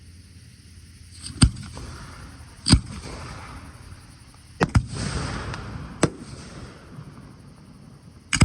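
Fireworks display: aerial shells bursting in about six sharp bangs at uneven intervals, two of them close together near the middle, with a crackling hiss trailing after some bursts.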